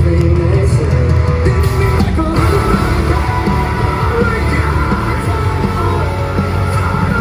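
Metalcore band playing live at full volume, a dense wall of band music with vocals over it.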